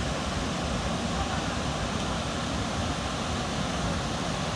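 Steady rushing noise, even across high and low, with a rumbling low end.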